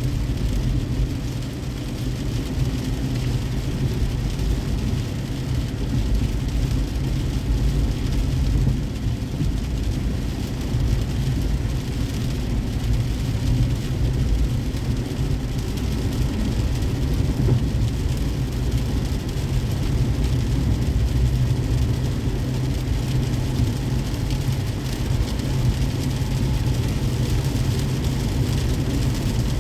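Car driving on a wet road in the rain: a steady low road rumble with an even hiss of rain and wet tyres.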